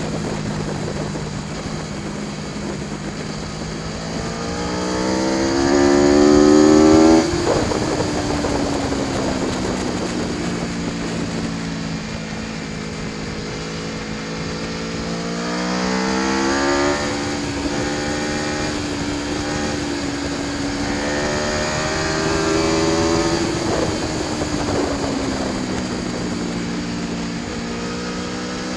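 Aprilia Tuono V4 1100 Factory's V4 engine on track, alternately revving up under acceleration and winding down as it eases off. The pitch climbs and falls several times, with sudden drops in revs about seven seconds in and again at about seventeen seconds.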